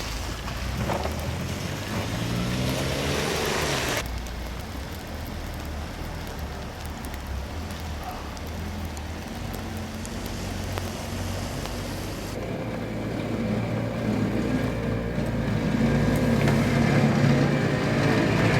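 A motor vehicle passes in the snowy street with its engine pitch rising, then a low steady rumble of traffic. About twelve seconds in the sound cuts to a snowplow's engine running and growing louder.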